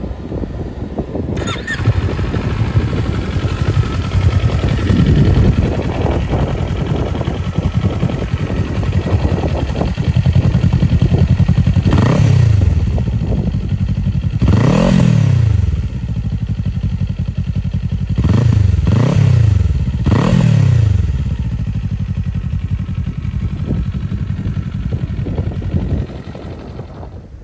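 An engine starting about a second and a half in and running, revved in short blips: one, then another, then three in quick succession, before it is shut off near the end.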